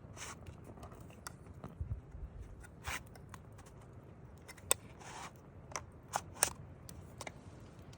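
Wood campfire crackling: irregular sharp pops and snaps of burning wood, a dozen or so, over a low steady background of the flames.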